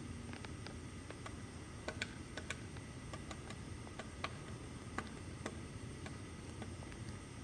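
Woodpecker pecking at wood: sharp, irregularly spaced taps, a few a second, not a drumming roll.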